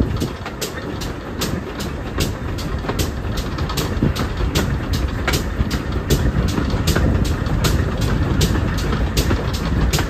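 Heritage railway train running on the track: a steady low rumble with rapid sharp clicks, several a second at uneven spacing.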